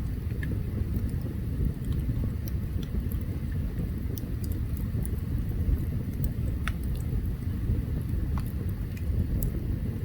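Open campfire burning: a steady low rumble with scattered sharp crackles and pops from the wood.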